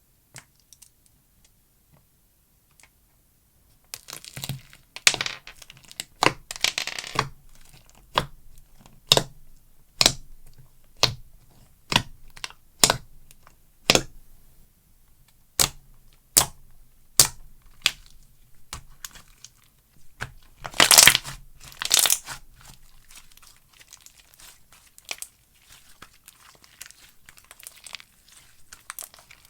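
Slime being squished and stretched by hand, making sharp wet pops about once a second, with longer crackly tearing stretches about five seconds in and again around twenty seconds in.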